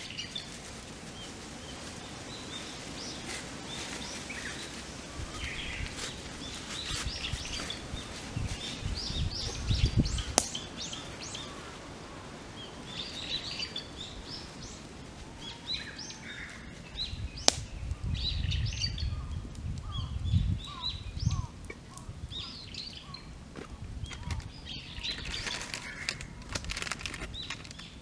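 Wild birds chirping and singing in short, repeated calls, over a wood campfire crackling with a few sharp pops. There are two spells of low rumble, about a third of the way in and again past the middle.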